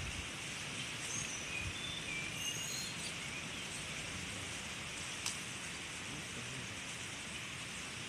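Steady outdoor background hiss with a few short, high bird chirps in the first three seconds, and a single sharp click about five seconds in.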